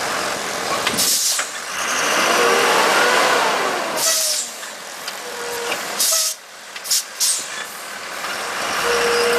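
Heavy truck running, with sharp hisses of air brakes released about a second in, again around four seconds in, and at six seconds.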